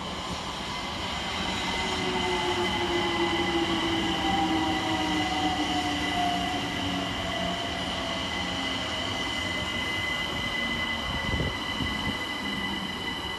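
London Overground Class 378 electric train pulling in and slowing, its traction motors whining in two tones that fall steadily in pitch as it brakes, over steady high-pitched squealing; a short knock about eleven seconds in.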